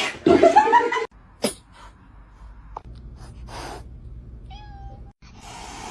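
A cat meowing loudly for about a second, its pitch bending, then a sharp click and quieter rustling noise.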